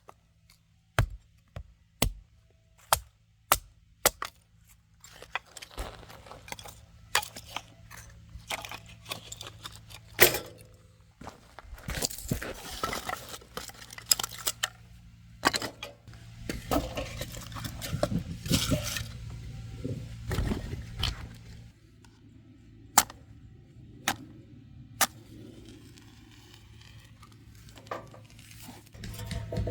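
Camping gear being handled: sharp knocks and clicks about once a second for the first few seconds, then a long stretch of rustling and scraping, with two more knocks later on. A faint low hum runs underneath.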